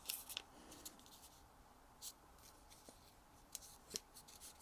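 Faint rustling and crinkling of a sheet of origami paper being turned over and folded, with a few short, scattered crackles.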